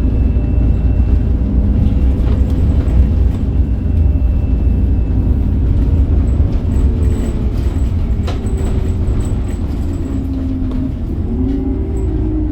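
Scania K270UB bus running with its Scania DC9 five-cylinder diesel and ZF Ecomat automatic gearbox, a heavy steady rumble. The engine note sinks slowly as the bus eases off, then climbs again near the end as it pulls. A few light rattles are heard along the way.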